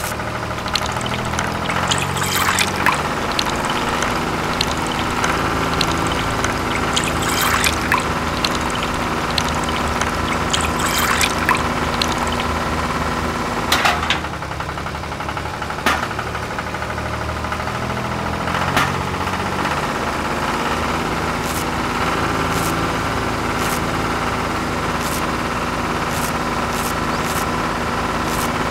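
Small motor of a miniature belt-driven fruit crusher running steadily, with scattered clicks and knocks as small tomatoes drop into its hopper and are crushed, and liquid trickling.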